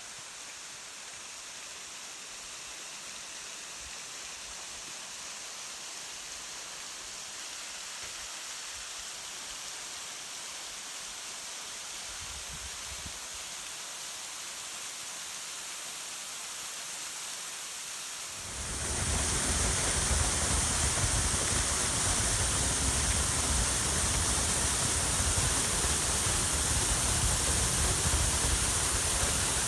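Waterfall rushing as a steady, even roar of falling water. About two-thirds of the way through it suddenly becomes much louder and fuller, with a deep low rumble added.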